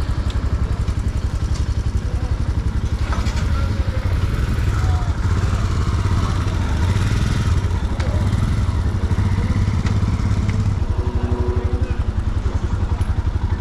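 Royal Enfield Himalayan 411 single-cylinder motorcycle engine running with a steady, even pulse.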